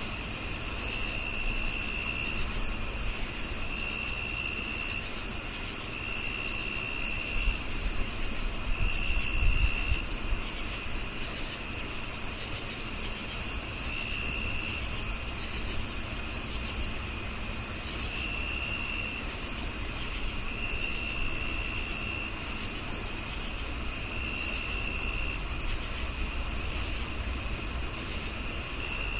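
Crickets chirping: a steady high trill under a run of short chirps about three a second, joined by a lower trill that comes and goes in one-second phrases every couple of seconds.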